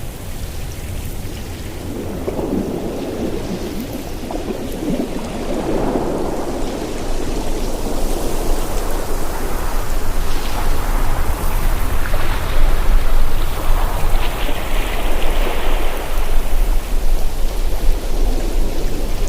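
Ocean surf: waves rushing and breaking on the shore over a steady low rumble, swelling louder through the second half.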